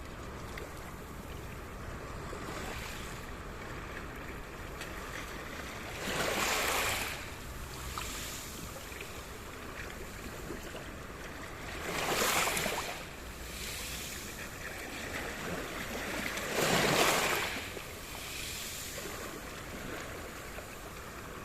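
Sea surf: waves breaking and washing in over a steady hiss of water, with three louder surges about six, twelve and seventeen seconds in.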